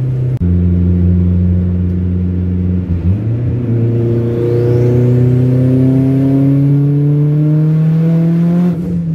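Turbocharged Honda H22 VTEC four-cylinder in a Honda Prelude, heard from inside the cabin: a steady engine note for the first few seconds, then the engine pulls up through the revs, its pitch rising steadily for about six seconds before dropping near the end.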